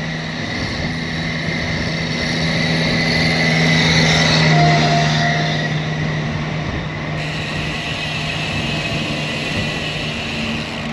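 Headwind buffeting the microphone of a camera mounted on a moving road bike, mixed with tyre and road noise. It swells to its loudest a few seconds in, then eases.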